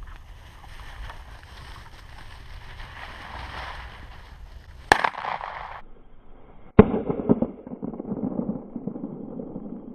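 Two shotgun shots about two seconds apart, each a sharp crack with a short echo, over the rustle of the field.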